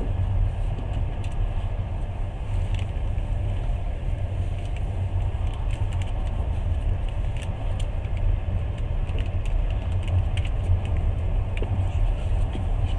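Steady low rumble of a moving passenger train heard from inside the carriage, with faint, irregular rattles and clicks over it.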